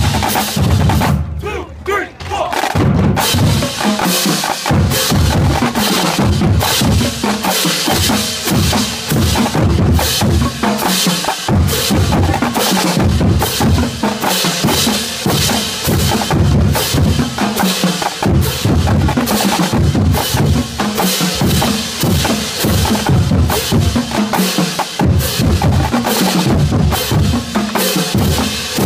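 High school drumline playing a loud, continuous cadence of snare and bass drums, with rolls and a short break about two seconds in.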